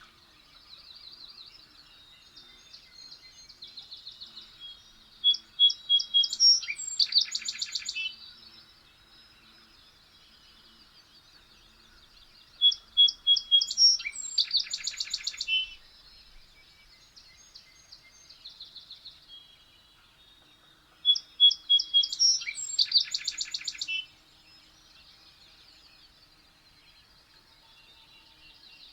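A songbird singing the same song three times, about eight seconds apart: each song runs about three seconds, a run of high notes building into a loud rapid trill. Softer chirps fill the gaps between songs.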